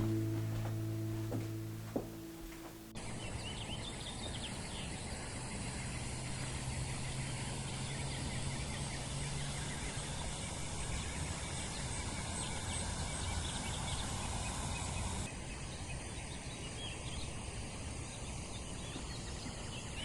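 Background music fading out, then, after a sudden cut about three seconds in, outdoor ambience: steady background noise with many short bird chirps, and a low hum for a few seconds in the middle.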